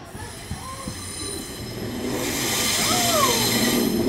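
Pacer diesel multiple units (Class 142 and 144) pulling into the platform, the wheels squealing in a high steady shriek that grows louder as the train approaches.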